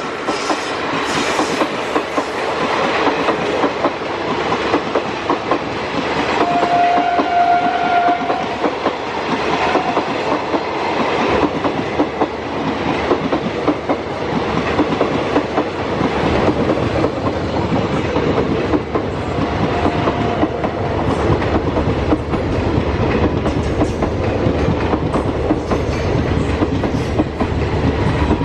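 A long train rolling past at speed, its wheels clattering steadily over the rail joints with a continuous rumble. About seven seconds in, a brief steady high tone sounds for roughly two seconds, with a fainter one later.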